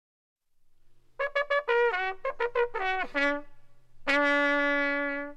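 A short brass musical phrase: a run of quick short notes, some sliding down in pitch, then one long held low note.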